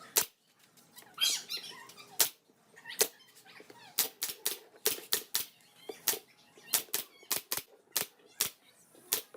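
A run of sharp clicks and knocks at uneven spacing, about two or three a second, with a short scratching or rustling sound about a second in.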